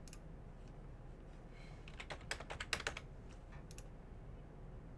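Computer keyboard typing: a quick run of keystrokes about two seconds in, with a few single clicks before and after, over a faint steady low hum.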